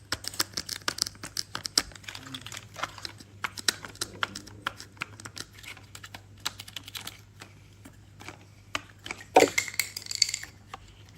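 Toy log truck, crane and toy logs being handled: irregular small clicks and clacks of hard toy parts knocking together. A little over nine seconds in there is one louder short sound that falls in pitch, then a brief hiss.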